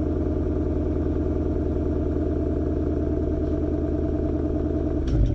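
2018 Mustang GT's 5.0-litre V8 idling steadily after a cold start, exhaust running through a Borla X-pipe in quiet mode. A brief thump comes near the end.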